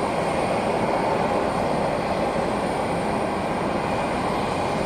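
Jet aircraft engines running with a steady rushing noise that holds level throughout.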